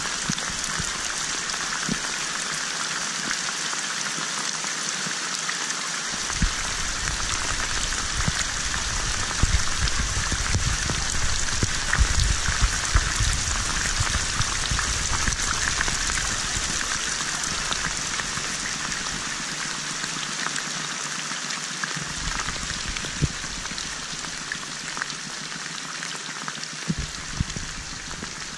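Steady rain falling on standing water, an even hiss of drops with occasional sharper drip ticks. A low wind rumble on the microphone comes in for much of the middle stretch and briefly again near the end.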